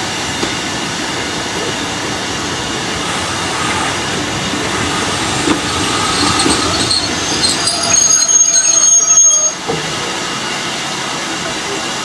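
Train running on the line, a steady rumble and rattle, with high-pitched wheel squeal growing louder in the second half and cutting off suddenly about two-thirds of the way through.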